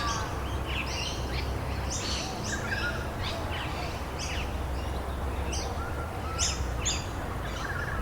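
A chorus of songbirds chirping and calling in many short, high notes, with a few brief warbles, over a steady background hiss and a low rumble.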